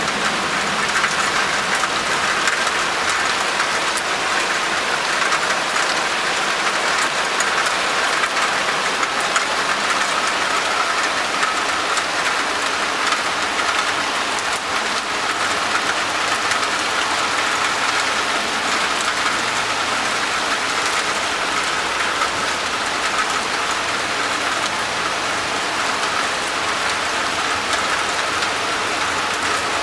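Heavy rain falling steadily onto a wet balcony ledge and railing and the garden below, an even rush of noise with the hits of many drops in it.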